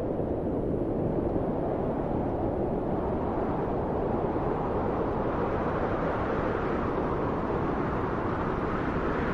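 Wind blowing steadily, a low rushing noise that swells slightly in its later seconds.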